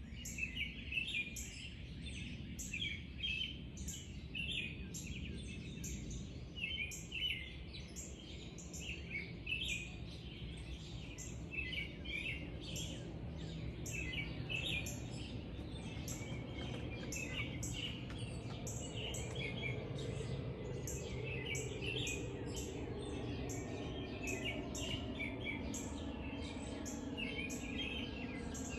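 Birds singing in the early morning: a dawn chorus of repeated chirps and twittering phrases, with a high short note repeating about twice a second throughout. A low background rumble sits underneath and grows somewhat louder about halfway through.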